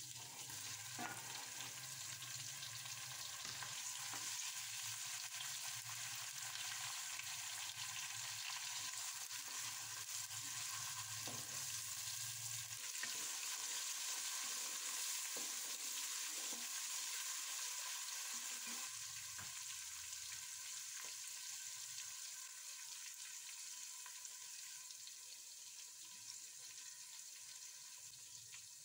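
Onions and tomatoes frying in oil in a steel pot, a steady sizzle, while a wooden spoon stirs them with a few light knocks against the pot. The sizzle eases a little near the end.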